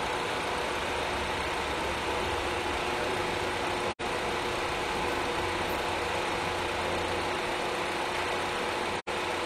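Haval H6's 2.0-litre non-hybrid four-cylinder engine idling steadily with the bonnet open. The sound cuts out for an instant twice.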